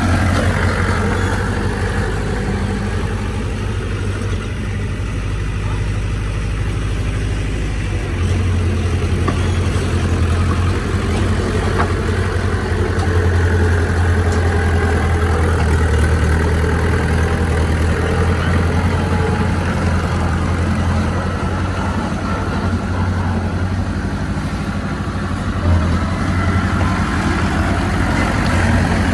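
Heavy diesel engine of earthmoving machinery running steadily under work, working a little harder from about eight seconds in.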